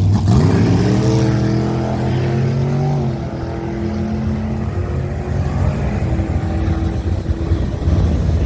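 Car engine accelerating: its pitch rises over the first second, holds steady for a couple of seconds, then fades away as it draws off, over a constant low rumble.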